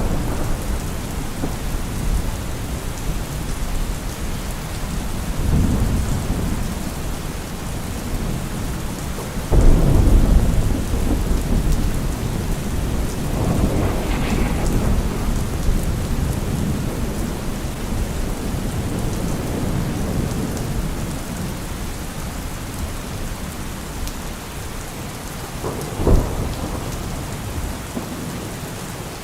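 Thunderstorm: steady rain with rolling thunder, a sudden loud thunderclap about ten seconds in and a sharper crack a few seconds before the end.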